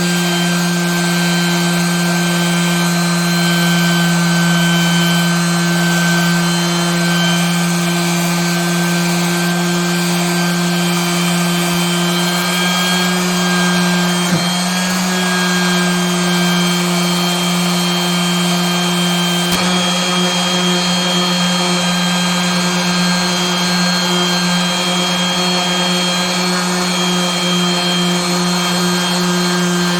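Electric power tool running continuously, its motor note holding steady with a slight shift in pitch about halfway through.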